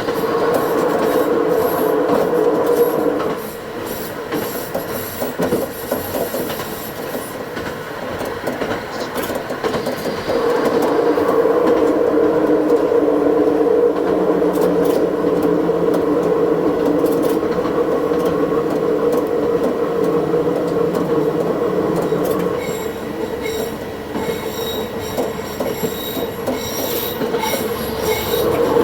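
Diesel railcar running along the track, played back at double speed: a steady drone of engine and running noise that eases off twice. Thin, high wheel squeals from the rails come and go in the first few seconds and again near the end.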